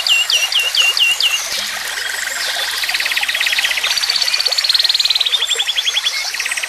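Summer nature chorus of animal calls: a run of about eight quick, high chirps that each drop in pitch, then fast, rattling trills at several pitches that overlap and carry on.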